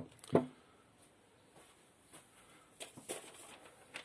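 Two short knocks of objects being handled on a table, then a few faint clicks and rustles near the end.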